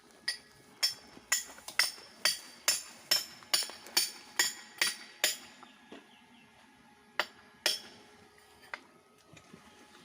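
Hammer driving a climbing peg into a tree trunk: about a dozen sharp, ringing clinks at roughly two a second, then a pause and two or three more blows.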